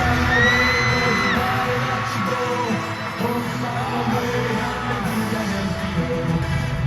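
Live K-pop concert music with singing, and yells from the audience.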